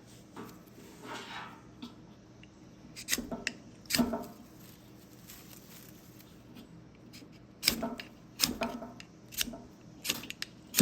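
Sharp scraping strikes of a bushcraft knife throwing sparks into a bird's-nest tinder bundle: a few strokes about three to four seconds in, then a quicker run of them from about eight seconds on.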